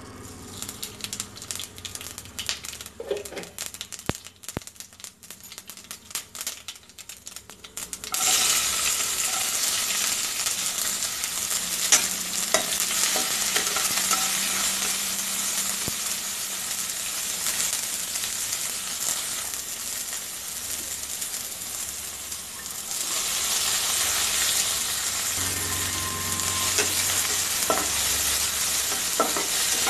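Tempering spices crackling and popping in hot oil in a kadai. About eight seconds in, a sudden loud sizzle starts as chopped onions go into the oil, and it keeps up as the onions fry and are stirred with a spatula against the pan.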